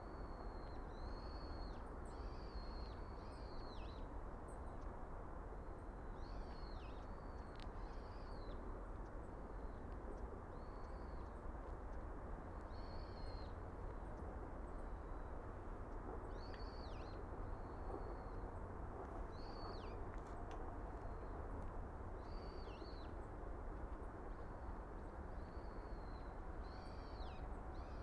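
Small birds calling over and over, short high notes that dip at the end, every second or two, over a steady low background rumble.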